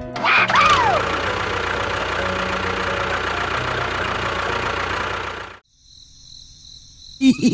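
A vehicle engine running steadily, with a falling whistle about half a second in. The engine cuts off abruptly about five and a half seconds in.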